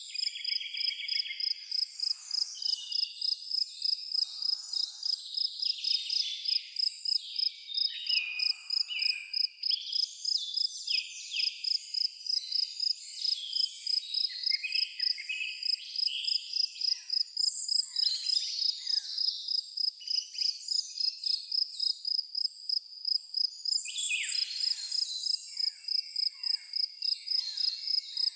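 Nature ambience: an insect, cricket-like, chirping a steady high note in an even pulse of about two or three chirps a second, with several birds singing varied, quick calls over it.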